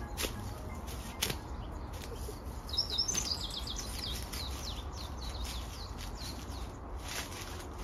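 A wild songbird singing a quick run of high, falling chirps from about three seconds in, over steady outdoor background noise.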